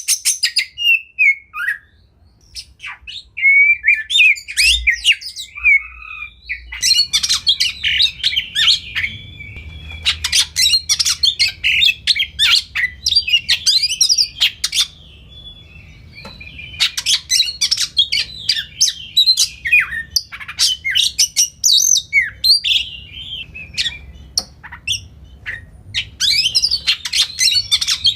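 Oriental magpie-robin (kacer) singing a fast, varied song of sharp chirps, squawks and whistled notes. It comes in bursts of several seconds with short pauses between phrases.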